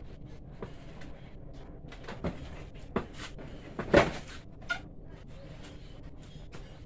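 A few sharp knocks and clatters, the loudest about four seconds in, over a steady low hum.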